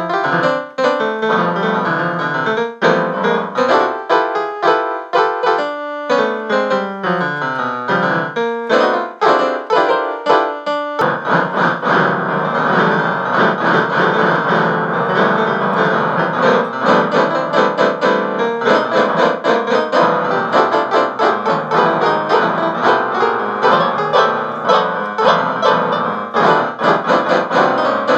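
Piano music: quick runs of notes, some falling stepwise, then about eleven seconds in it changes abruptly to a fuller, denser passage.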